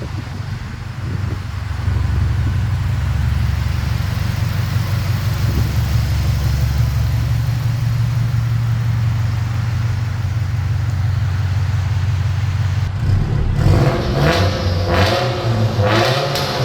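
Subaru Impreza STI's turbocharged flat-four exhaust holding a steady low drone, then about thirteen seconds in the engine revs up hard, louder and climbing in pitch, echoing in a tunnel.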